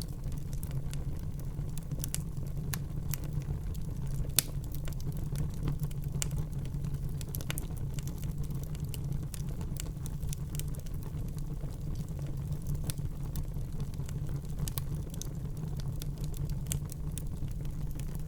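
Wood fire burning in a fireplace, with a steady low rumble and frequent small crackles and pops of the burning logs; one louder pop about four and a half seconds in.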